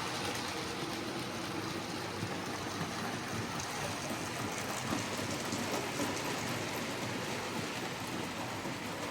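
Model A4 steam locomotive running around a model railway layout: a steady whirring rumble of the motor and wheels on the rails, with a couple of faint ticks about halfway through.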